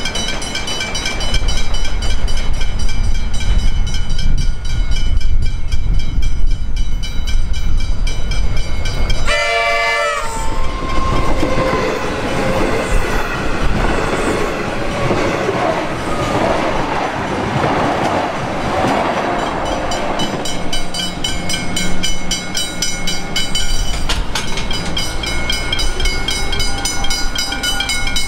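Level crossing bells ringing in a steady rhythm while a train passes, its wheels clattering over the rails. One horn blast lasting about a second comes about ten seconds in.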